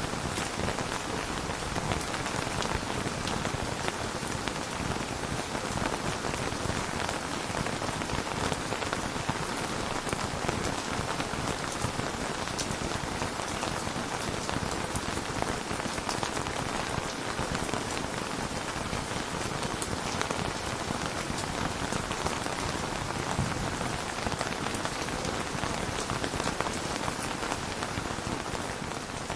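Steady rain falling, an even hiss with fine pattering drops, beginning to fade out near the end.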